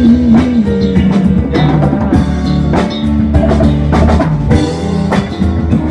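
Live funk band playing an instrumental stretch: a drum kit beat with bass drum and snare hits under sustained bass and other instruments.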